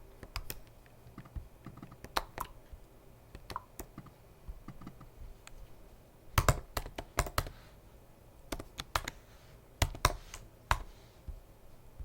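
Typing on a computer keyboard: irregular keystrokes, scattered at first, then in short quick bursts over the second half.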